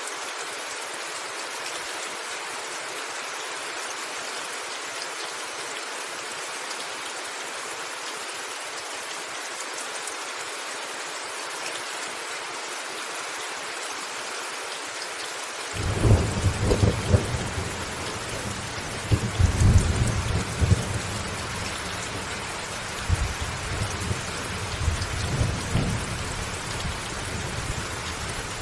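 Steady rain falling on a rooftop. About halfway through, thunder breaks in with a low rumble that swells and fades in several waves.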